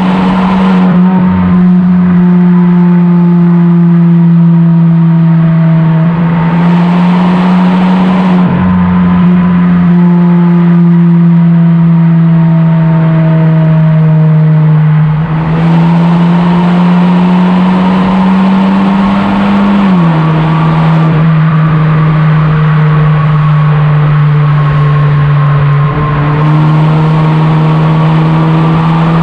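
Tuned aftermarket exhaust of a Kia K5 DL3 with the 1.6-litre turbo inline-four, running steadily under way with a deep, even drone. The pitch holds level for long stretches, rises slowly, then drops about two-thirds of the way through, as with a gear change.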